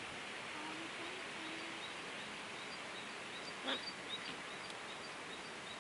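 Outdoor background hiss with a few faint, short bird chirps and one brief sharp sound about three and a half seconds in.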